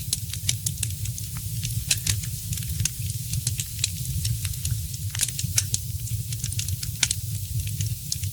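Wood fire crackling, with many irregular sharp pops and snaps over a low steady rumble of burning.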